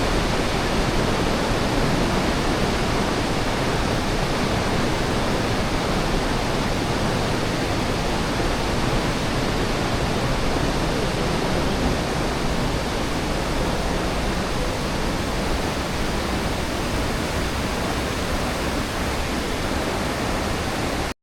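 Steady rushing of water, an even roar with no change, cutting off suddenly at the end.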